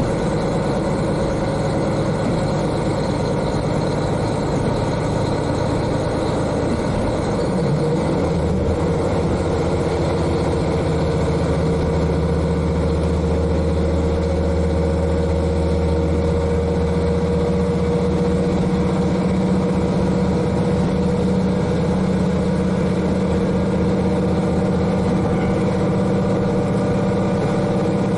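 JR KiHa 40 diesel railcar's N-DMF13HZI turbocharged six-cylinder diesel engine running under load, heard inside the car directly above the engine. About a quarter of the way in the engine note shifts and it then runs steady and slightly louder.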